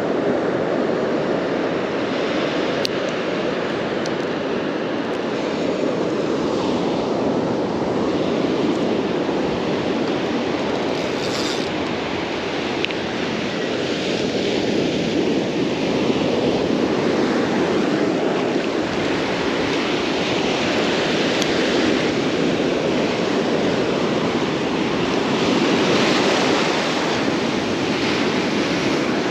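Ocean surf washing in a steady rush that swells and eases slowly, with some wind on the microphone.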